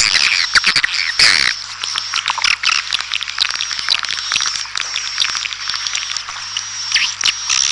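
Swiftlets calling: a dense, continuous chatter of rapid twittering chirps and clicks, with a thin, steady high tone held beneath them.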